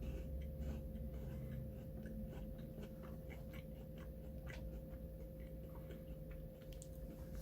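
A person chewing a banana-flavoured Kit Kat wafer bar, small irregular crunching clicks, over a steady electrical hum.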